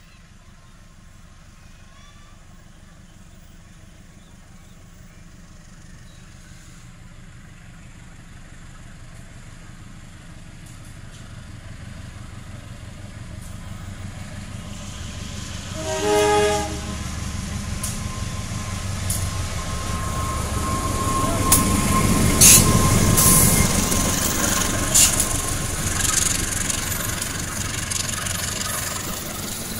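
CC201 diesel-electric locomotive and its train approaching and passing: the engine rumble grows steadily louder, the locomotive horn sounds once for about a second around the middle, then the wheels click over the rail joints as the cars go by.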